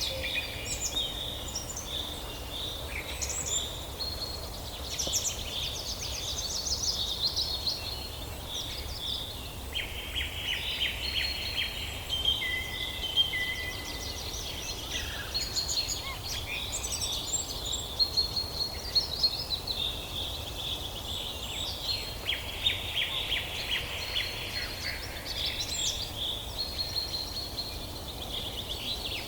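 Several forest songbirds singing at once: overlapping chirps, fast trills and short whistles, with a low steady rumble underneath.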